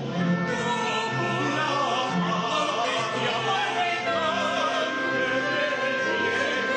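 Symphony orchestra with choir and solo singing in operatic style: a wavering sung line over held orchestral chords.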